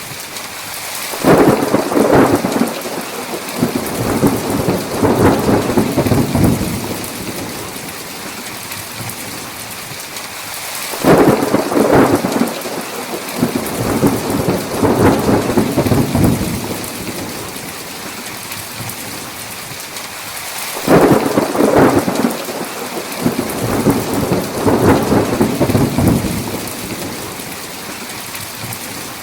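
Steady heavy rain with rolling thunder: three thunder rolls about ten seconds apart, each starting suddenly and rumbling on for around five seconds.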